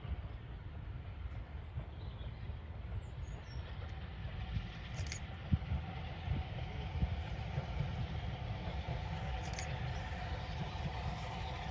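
Distant train rumbling low and steady, with a faint steady tone that grows stronger near the end.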